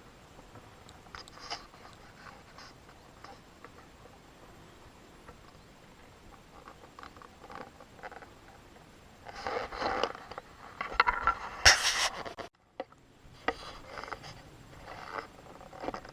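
Irregular scraping and rustling noises, faint at first and then a louder cluster about ten seconds in, broken off by a sudden cut before more rustling follows.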